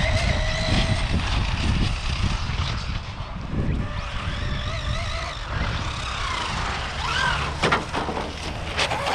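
Electric RC car's brushless motor and drivetrain whining, the pitch climbing and dropping as the car speeds up and slows, over a low rumble, with a few sharp clicks near the end.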